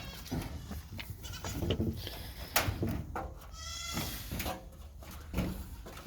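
Goats bleating, several short calls one after another.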